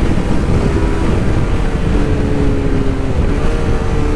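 Yamaha R3's parallel-twin engine running at high revs under way, a steady high engine note that steps in pitch a couple of times, with heavy wind noise on the microphone.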